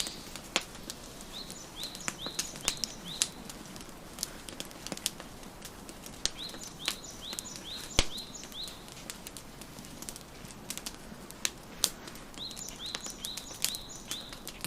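Wood fire crackling with irregular sharp pops, the loudest about eight seconds in, while a songbird sings runs of short, quickly repeated chirping notes, three times.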